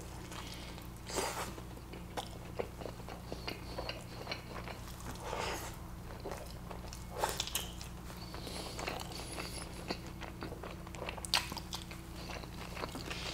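Close-miked eating sounds: biting and wet chewing of a soft, tortilla-wrapped burrito, with a few louder mouth sounds scattered through.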